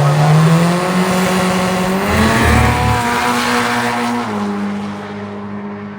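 Volkswagen drag car accelerating hard, its engine note climbing steadily in pitch over about four seconds. About four seconds in, the engine fades under steady held tones, the start of music.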